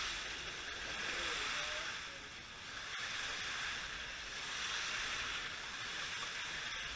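Slot cars racing around the track: a steady high hiss from their small electric motors and tyres, swelling and easing slightly as the cars come past.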